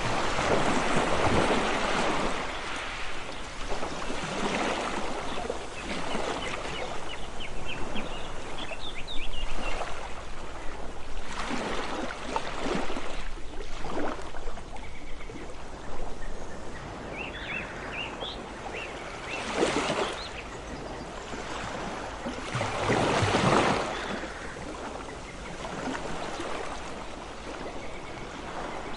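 Ocean waves washing in and breaking, swelling and ebbing in irregular surges every few seconds, the strongest about two-thirds of the way through. Short bird chirps come in twice, about a third of the way in and a little past halfway.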